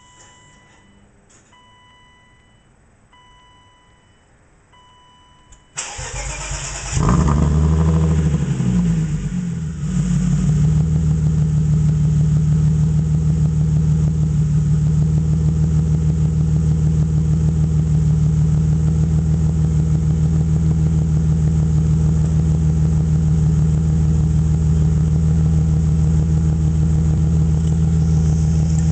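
A warning chime beeps about once a second. Then a BMW M50 straight-six, fitted with Raceland headers and a straight-pipe exhaust, cranks briefly, catches with a rev that flares up and falls back, and settles into a steady cold-start idle.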